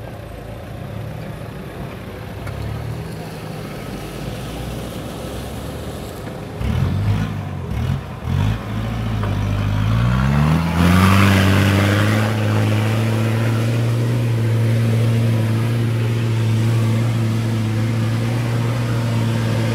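4x4 engine labouring up a steep dirt climb: a few short revs, then the engine speed rises and holds as a loud, steady drone under load.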